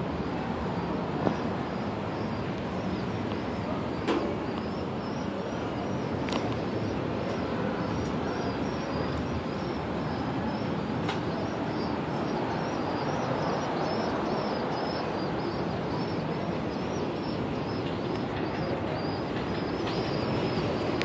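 Small birds chirping high and fast, a few calls a second, over a steady background of city noise. Two sharp knocks, about one and four seconds in.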